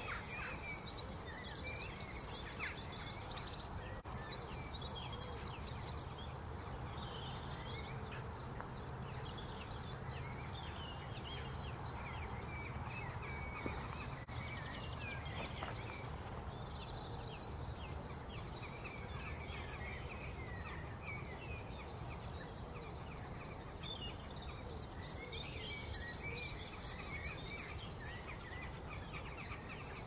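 Wild birds singing and calling: many short chirps and trills, several at once, over a steady low background hum.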